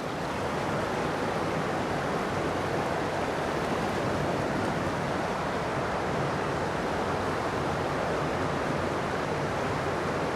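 Steady rush of creek water pouring over a waterfall, growing a little louder about a second in and then holding level.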